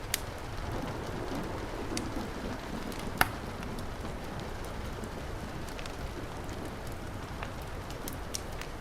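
Steady heavy rain with a wood fire crackling over it: a few sharp pops stand out, the loudest about three seconds in.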